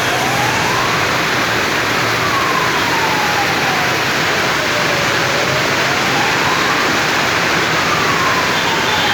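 Steady, heavy rain falling. Under it, a faint siren wails slowly up and down, taking a few seconds to rise and fall.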